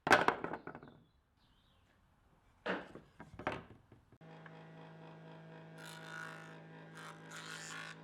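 A few knocks and scrapes of wood and tools being handled, then a small electric power tool's motor running at a steady pitch from about four seconds in.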